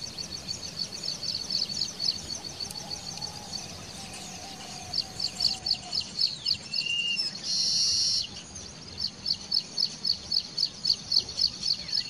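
Small birds chirping: a rapid, even series of short high chirps, about three or four a second, with a brief buzzy hiss about two thirds of the way through.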